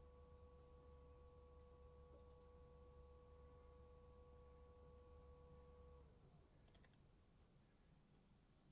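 Near silence: a faint steady hum with a thin tone that stops about six seconds in, followed by a few faint clicks.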